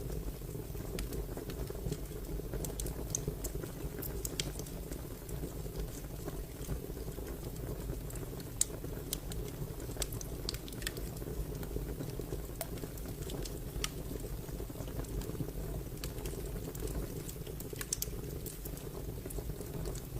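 Crackling fire: irregular, sparse sharp pops and crackles over a steady low rumble of flame.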